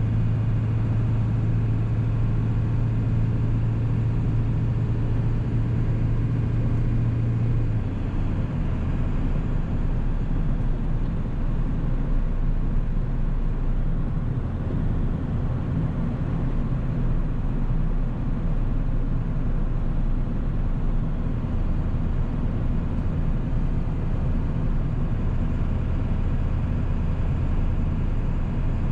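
1997 7.3 Powerstroke turbo-diesel V8 running steadily under way, with road noise. Its low engine note drops in pitch about eight seconds in and then holds steady.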